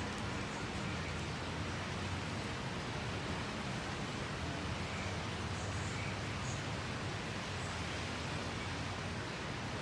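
Steady rain, an even hiss with no separate drops or knocks standing out.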